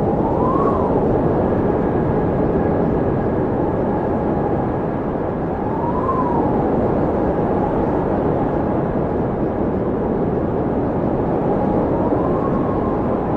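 Blizzard wind blowing steadily with a deep rushing noise. A thin howling whistle rises and falls over it about every six seconds.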